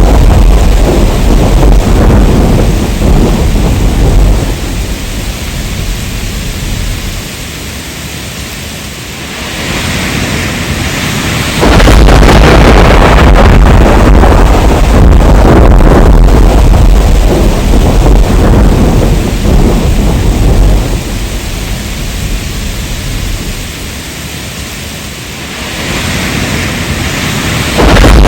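Heavy rain with thunder rumbling. The deep rumble fades back to the steady hiss of rain about five seconds in, then builds and comes back abruptly about twelve seconds in. It fades again after about twenty seconds and jumps back up right at the end.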